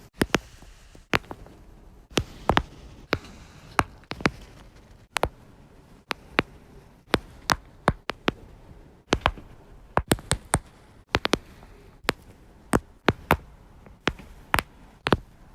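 Lower-back joints cracking: a run of sharp pops and clicks, about two a second and unevenly spaced.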